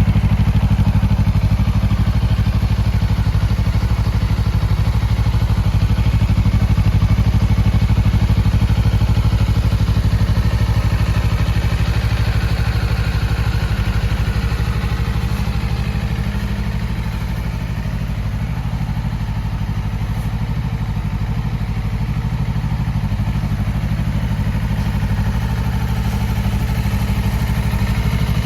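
Honda CBR250RR's parallel-twin engine idling steadily.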